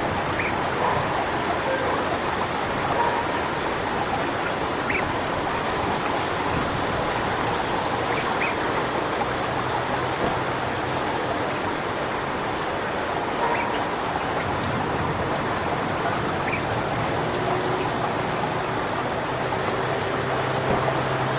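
Strong wind blowing through coconut palm fronds, a steady rushing rustle, with a few short, higher-pitched calls at irregular moments.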